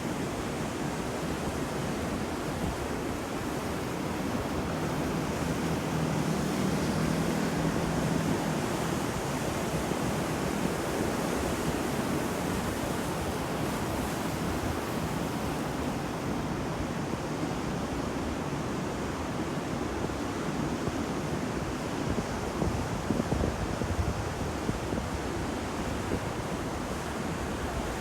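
Ocean surf: waves washing onto a shore in a continuous rush, swelling a little about a quarter of the way in.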